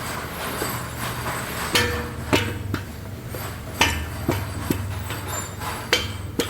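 Irregular sharp metal knocks and clinks, about eight of them, from tools and engine parts being handled during a diesel engine teardown, over a steady low hum.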